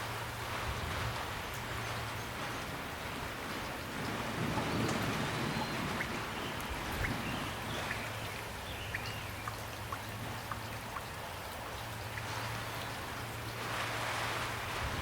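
Steady rain falling, with many separate drops striking nearby surfaces. A low rumble swells about four seconds in and fades over the next two seconds.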